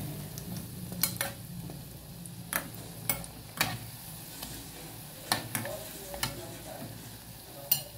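Bolinhos de chuva (dough fritters) frying in hot oil in an aluminium pot, a steady sizzle, with a metal spoon clinking against the pot several times as it turns and lifts them.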